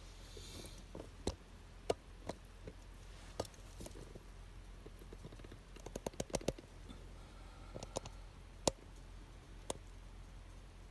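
Wood fire burning down, its embers crackling with scattered sharp pops at irregular intervals and a quick run of several pops about six seconds in.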